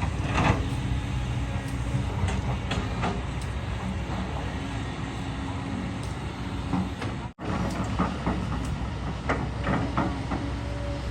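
Excavator's diesel engine running steadily, with scattered metallic clanks and knocks from the machine working. The sound cuts out briefly about seven seconds in.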